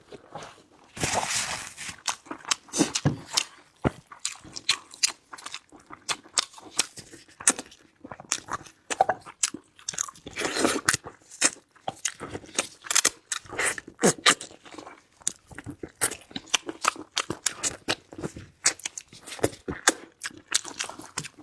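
A person biting and chewing crunchy food, a steady run of crisp crunches and wet chewing clicks, with louder crunching spells about a second in and about ten seconds in.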